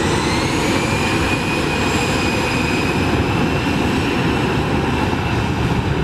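Jet aircraft engine running: a loud steady rush with a whine that rises in pitch over about the first second, then holds level.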